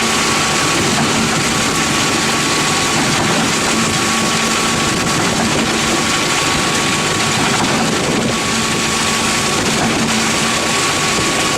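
Concrete pump running steadily while pumping: an even, loud machine noise with a steady whine and a low hum.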